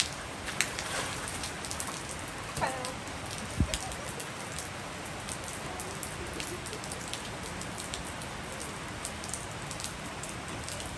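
Steady rain falling on a wet tiled rooftop, with many small scattered drips; a single dull thump a little over three seconds in.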